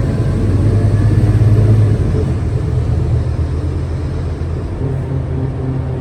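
Scania K320UA articulated bus's engine running with a low hum and road rumble, pulling harder at first, then easing off about two seconds in.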